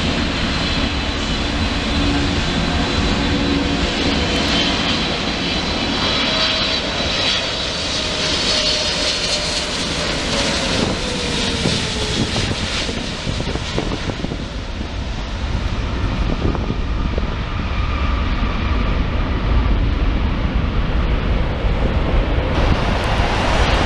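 Wide-body jet airliner landing: steady, loud jet engine noise with a high fan whine, and a lower tone that slides down in pitch midway through.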